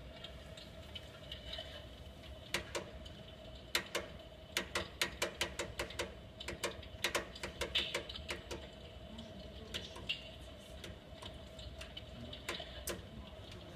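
Electric fireplace's crackling-fire sound effect: irregular sharp snaps like burning wood, thickest in the middle and sparser near the start and end, over a steady faint hum.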